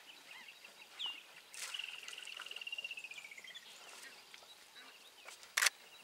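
Birds calling outdoors: a short downward call about a second in, then a long pulsing trill that slides slowly down in pitch. A sharp click sounds near the end.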